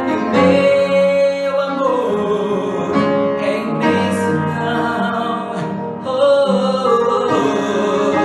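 Singing with guitar accompaniment, a ballad with long held notes.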